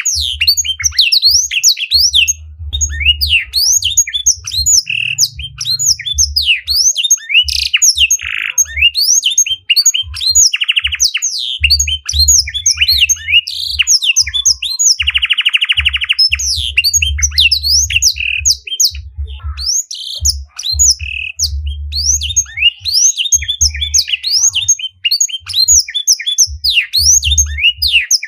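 Small songbirds singing a rapid, continuous jumble of high chirps and sweeping notes, broken every few seconds by a buzzy trill about a second long. A low, intermittent rumble runs underneath.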